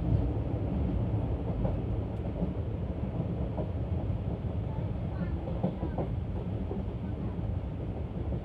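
Passenger coach of the 17317 Hubballi–LTT Express running at speed, heard at the open window: a steady rumble of wheels on the rails.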